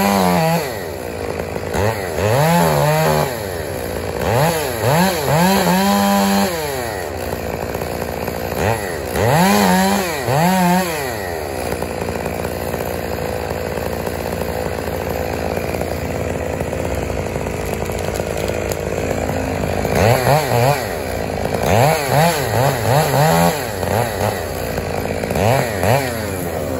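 Chainsaw revving up and down in short bursts, over a steady low engine hum. There are several revs in the first ten seconds or so, a stretch of lower steady running, then a quick run of short blips near the end.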